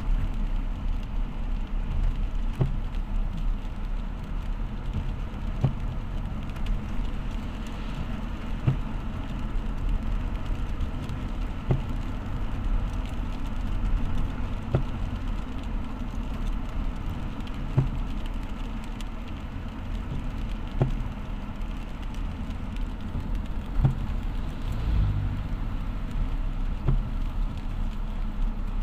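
Motor vehicle driving in the rain: a steady low engine and road rumble, with a short click about every three seconds.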